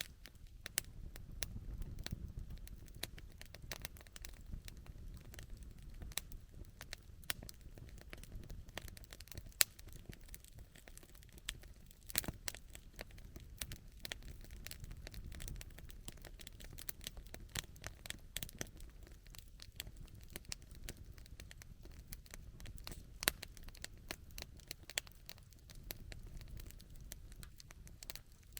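Wood campfire crackling, with many sharp irregular pops and snaps over a soft low rumble of burning.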